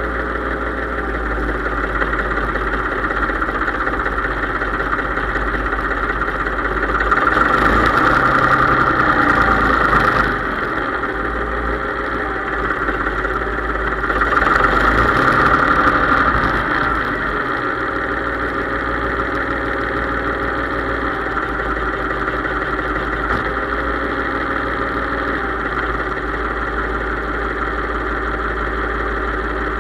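Case IH 3220 tractor's diesel engine running steadily, twice picking up revs and getting louder for a few seconds, about a quarter of the way in and again near the middle, then settling back.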